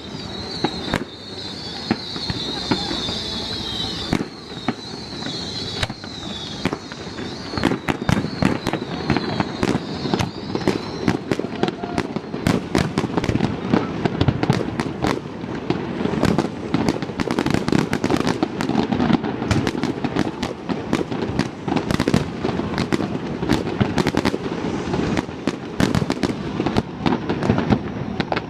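Fireworks display: a rapid, irregular barrage of aerial shell bangs and crackles that grows denser after the first several seconds, with a wavering high whistle over the first ten seconds or so.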